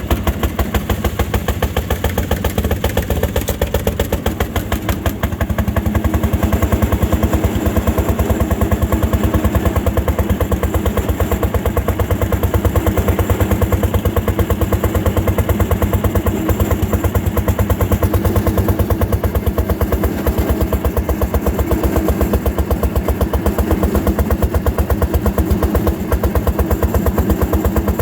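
Fairmont M-19 railroad motor car's single-cylinder two-stroke engine running steadily under load as it works up a grade, a fast, even train of exhaust beats.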